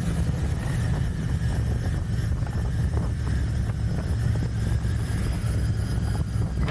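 Royal Enfield Continental GT 650's 648 cc parallel-twin engine running through its stock exhaust, a steady low rumble, with wind buffeting the microphone.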